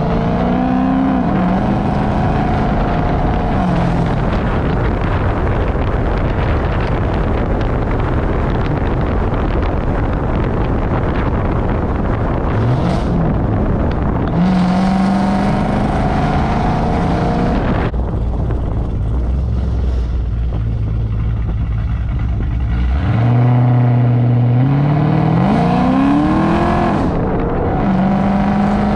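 Cammed, straight-piped Ford Mustang GT 4.6 L three-valve V8 under way: its exhaust note climbs in pitch under throttle and falls back several times, with a lower, steadier stretch in the middle.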